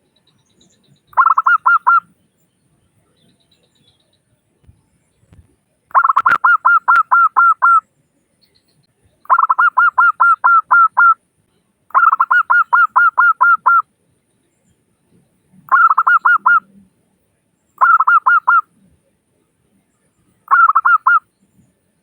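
Zebra dove (perkutut) cooing: seven quick bursts of rapidly repeated, evenly spaced coo notes, each burst lasting one to two seconds, with short pauses between.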